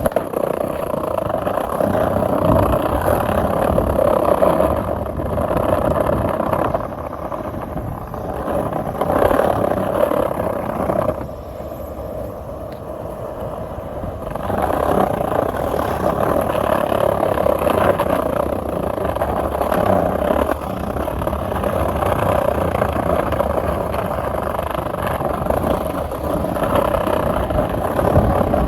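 Steady rolling noise of wheels on pavement, swelling and easing, quieter for a few seconds near the middle.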